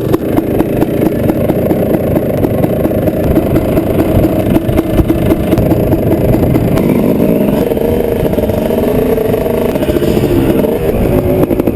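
Dirt bike engine running hard, its pitch rising and falling as the throttle is opened and eased off.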